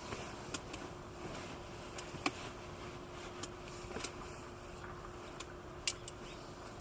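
Wood campfire crackling: sharp, irregular pops and snaps, a few seconds apart, over a steady low hiss.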